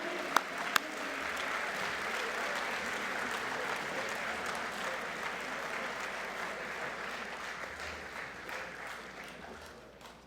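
Audience applauding, with a few loud single claps close by at the start; the applause dies away near the end.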